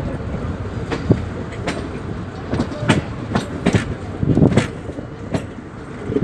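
Express train running on the line: a steady rumble of the coaches with irregular sharp clanks of wheels crossing rail joints.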